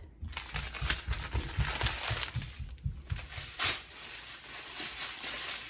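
Small plastic bags of diamond painting drills crinkling and rustling as they are handled, with irregular small clicks.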